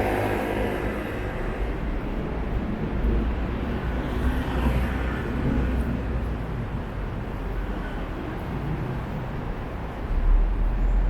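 Road traffic on a busy city street: a steady low rumble of engines and tyre noise. A vehicle passes at the start, and a louder low rumble comes near the end.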